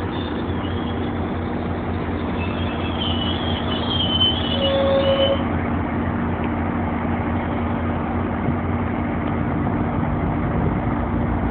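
GO Transit diesel commuter train at the station: high, thin wheel and brake squeals that die away about five seconds in, over a steady low rumble and hum of the train's engines.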